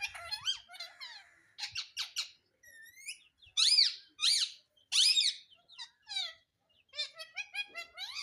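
Pet parrot giving a run of short, squeaky chirps and calls. The two loudest calls come about three and a half and five seconds in, and a quick series of chirps follows near the end.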